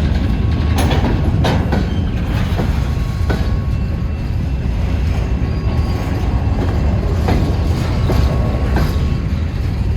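Norfolk Southern freight cars rolling past: a steady low rumble of steel wheels on rail, with irregular clicks and knocks as the wheels cross rail joints.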